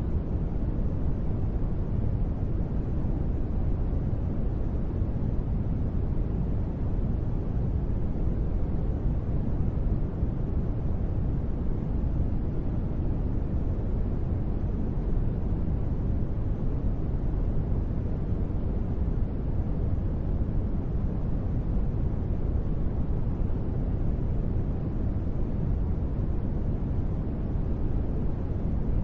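Steady rain noise, deep and even, with most of its weight in the low end and no single drops, thunder or other sounds standing out.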